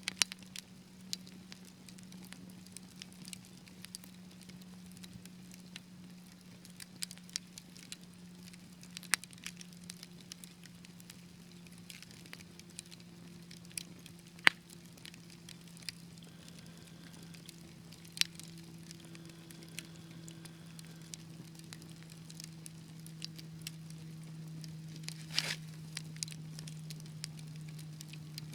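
Wood fire crackling, with sharp pops at irregular intervals, a few louder than the rest, over a steady low hum.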